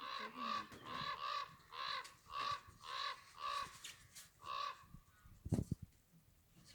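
A bird squawking: a run of about nine short squawks, roughly two a second, that stops after four and a half seconds. A brief low thump follows near the end.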